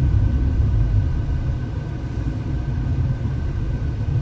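Car engine and tyre rumble heard from inside the cabin, a steady low drone as the car climbs a mountain road in second gear.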